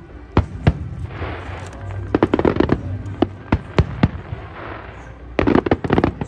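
Fireworks display: aerial shells bursting in sharp bangs. Twice a quick cluster of reports comes close together, about two seconds in and again near the end, and between the bangs there is a crackling fizz.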